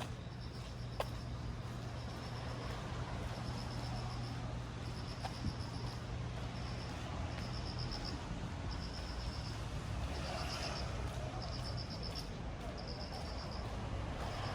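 A cricket chirping in short pulsed trills about once a second over the steady hiss of rain, with a low steady hum underneath that fades about two-thirds of the way through.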